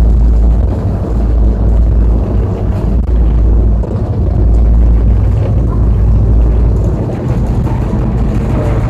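Loud, steady low rumble of a moving vehicle, with a low engine-like hum under it and a dip in level about four seconds in.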